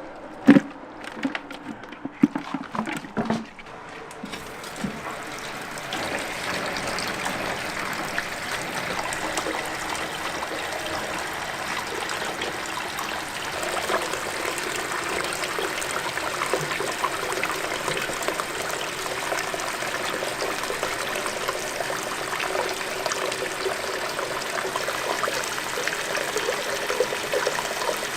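A few knocks and clatters, then water running steadily from about five seconds in, like a tap or poured stream filling a container.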